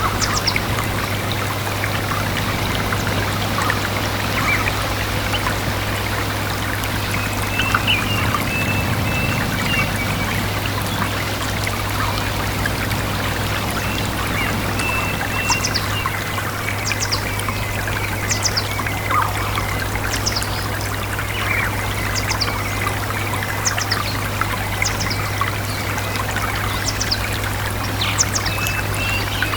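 Small stream trickling and babbling steadily, with birds calling over it: a run of short, high, falling chirps through the second half and thinner warbling calls now and then. A steady low hum sits underneath.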